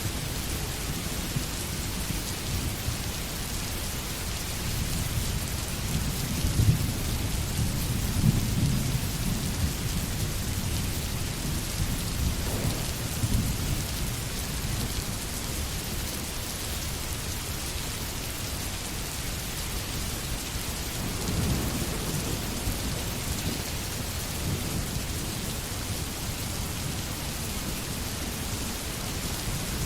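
Steady rain, with low rumbles of thunder rolling in about a quarter of the way through and again about two-thirds of the way through.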